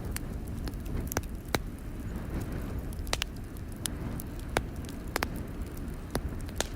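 Log fire crackling in a fireplace, with sharp irregular pops about once a second over a steady low rumble.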